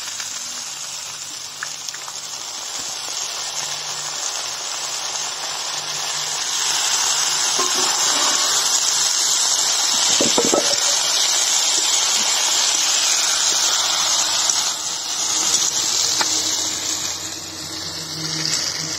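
Fresh fenugreek (methi) leaves sizzling and hissing in hot oil in a kadai as they go in and are stirred with a spatula. The sizzle swells about six seconds in, with a brief clatter of the spatula near the middle, and eases a little near the end.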